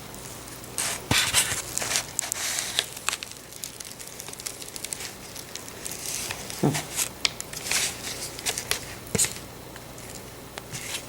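Hands rolling up a flattened, filled chicken breast: irregular crinkling and small sticky clicks as the meat is handled and pressed together.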